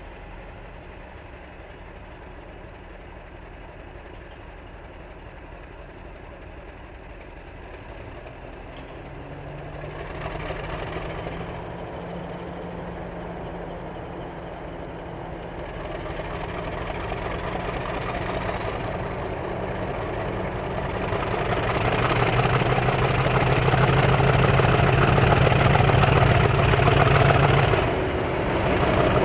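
Diesel locomotive approaching with a train, its engine note building steadily louder with the rumble of the train. A high whine climbs in pitch as it nears and drops away near the end as it passes.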